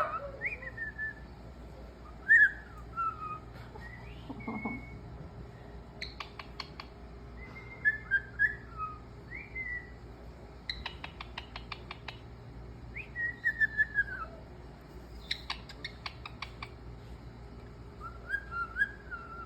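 A parrot whistling in short gliding notes, with three quick runs of rapid clicks.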